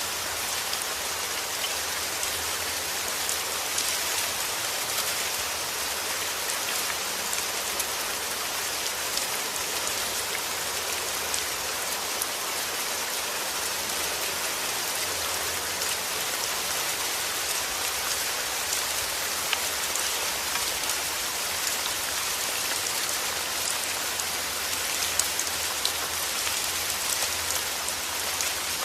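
Steady heavy rain falling, a constant hiss with many small drop patters and no thunder.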